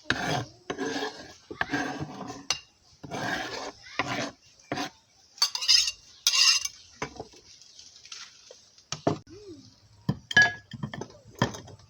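Metal pots and utensils clinking and scraping: a quick run of scraping strokes for the first five seconds, then a few scattered sharp clinks.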